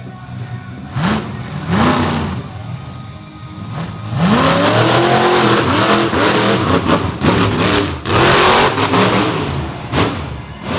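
Monster truck engine revving hard in repeated quick rises and falls: two short blips, then from about four seconds in a long loud stretch of several throttle stabs.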